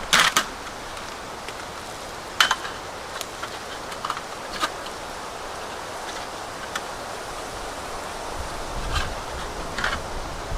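Steady outdoor background noise broken by a few sharp clicks and knocks, like small gear being handled: a quick cluster right at the start, then single ones about two and a half, four and a half, nine and ten seconds in.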